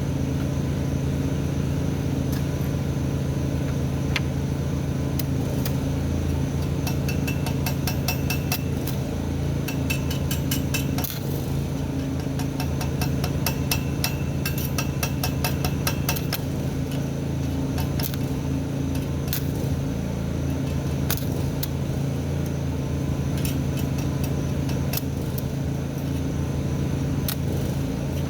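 Stick welding: the arc crackles in short sputtering bursts as tack welds are struck, over a steady low hum. The welder is underpowered on its power cord, which makes the arc hard to hold.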